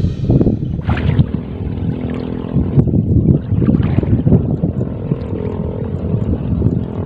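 Strong wind buffeting the microphone: a loud, gusty low rumble that rises and falls.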